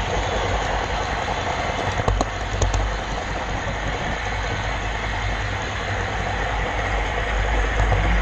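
Steady rolling rumble and rattle of a model train running on layout track, picked up by the GoPro camera car riding on it, with a few sharp clicks about two to three seconds in.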